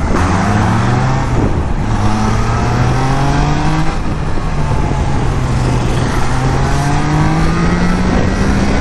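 Triumph Trident 660's inline-three engine accelerating hard, its pitch climbing through the gears and dropping at two upshifts, about one and a half and four seconds in.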